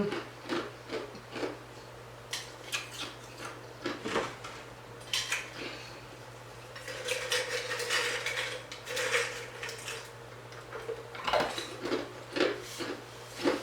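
Cutlery clinking and scraping against plates and dishes: a run of quick taps and clicks, with a longer scrape about seven seconds in.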